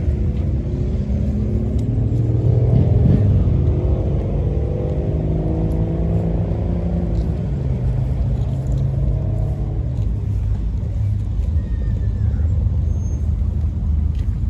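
A car engine running under a steady low rumble, its pitch rising and falling through the first ten seconds or so before it settles and fades.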